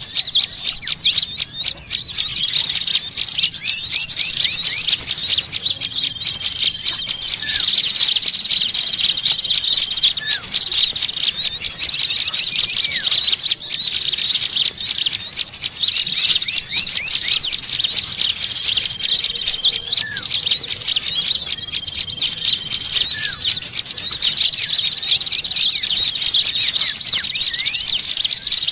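Dense, unbroken chorus of many small birds chirping and twittering rapidly at a high pitch, with short held whistle notes recurring every few seconds: a noisy small-bird lure (pikat) recording of the kind played to draw in small birds.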